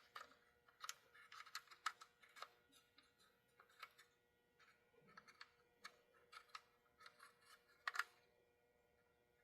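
Faint, irregular clicks and taps of small model-locomotive parts being handled on a workbench, with a sharper click near the end.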